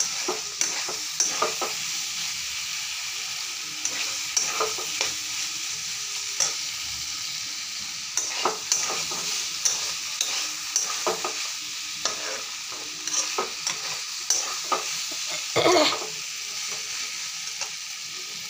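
Raw banana and potato curry frying in its tomato-spice masala in a metal kadhai: a steady sizzle, with a spatula stirring and scraping against the pan in irregular strokes.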